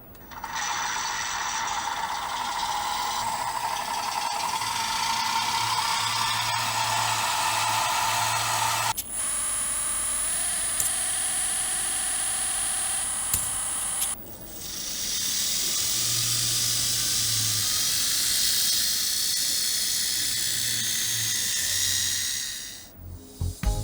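Small electric hydraulic pump of a 1/14 RC hydraulic truck-mounted forklift running under valve control. It runs steadily, turns to a high steady whine about nine seconds in, drops off briefly around fourteen seconds, then runs again until just before the end.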